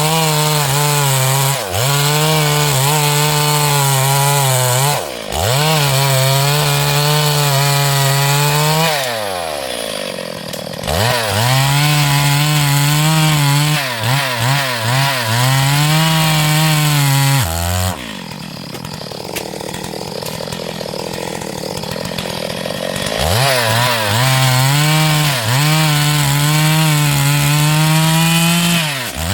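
Stihl MS382 two-stroke chainsaw running near full throttle while ripping a hardwood log lengthwise, its engine note dipping briefly under load. About nine seconds in the revs fall away and climb back, and a little past halfway they drop for several seconds to a lower, rougher sound before rising to full speed again.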